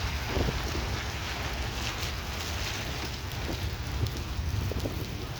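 Heavy rain falling steadily, with wind buffeting the microphone as a low rumble and scattered drops striking close by as small sharp ticks.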